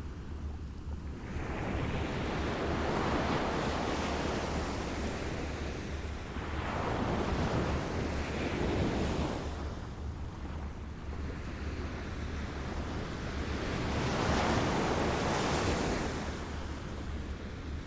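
Small waves lapping at the shore, the wash swelling and falling back three times, over a steady low rumble of wind on the microphone.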